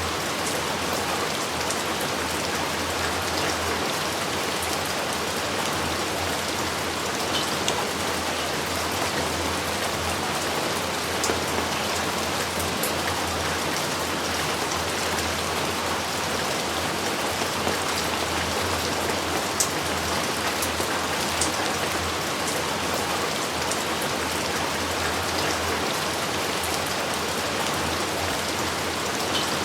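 Steady heavy rain falling, an even hiss with scattered sharper drop impacts.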